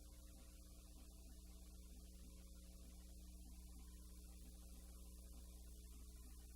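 Near silence with a steady low electrical hum, the kind of mains hum left on the track of a silent film transfer.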